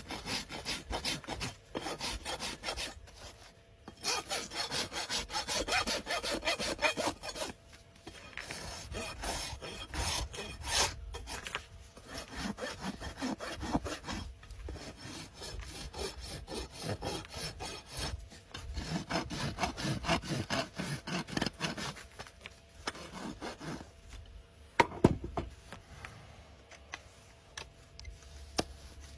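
Farrier's rasp filing a horse's hoof in runs of quick scraping strokes, with short pauses between runs and a sharp knock near the end.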